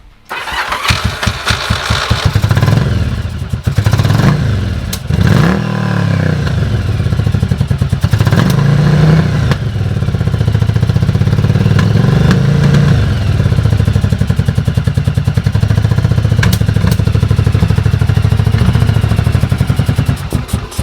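Yamaha XV750 Virago's air-cooled V-twin starting up and running, blipped up and down in revs several times in the first dozen seconds and then running steadily. This is the engine's first run with the freshly refitted carburettors, their vacuum hoses still unconnected.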